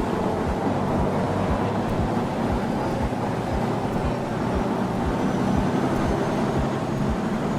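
Canal express boat's engine running steadily while cruising, with a continuous rush of noise and repeated low thumps a few times a second.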